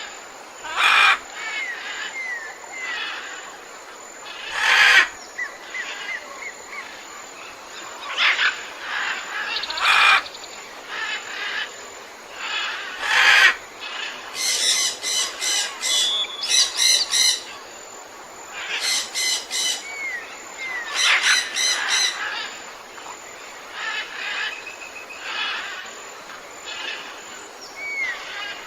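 Tropical forest birds calling together. There are loud harsh calls every few seconds, bursts of rapid repeated notes in the middle, and short gliding whistles, all over a steady background hiss.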